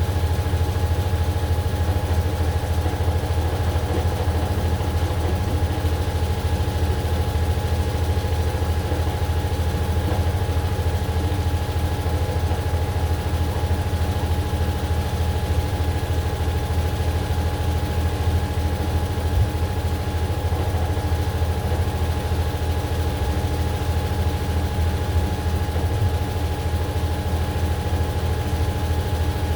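AQUA AQW-DX12M drum washing machine running steadily, a constant deep rumble with a steady whine over it and no pauses.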